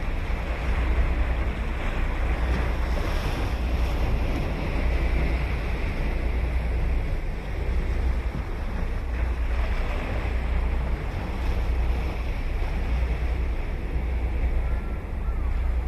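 Ocean surf washing onto a sandy beach in a steady wash that swells and eases. Wind buffets the microphone with a low rumble.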